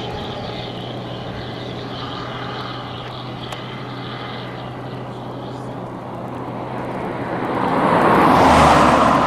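Steady low engine hum, then a vehicle approaching and passing close by, loudest about eight and a half seconds in.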